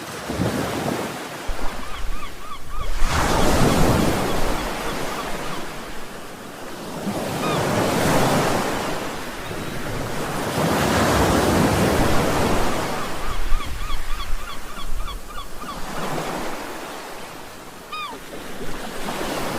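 Sea waves breaking and washing on the shore, the rush swelling and ebbing every few seconds. Runs of short, repeated high chirps come through between the surges several times.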